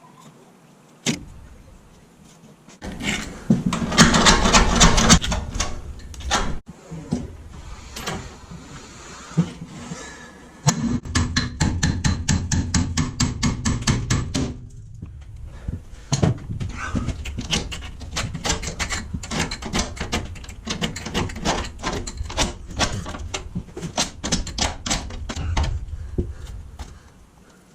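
Hand tools working a seized coach nut and sealant on a steel boat roof fitting: a loud stretch of scraping, then long runs of rapid knocks or clicks, several a second.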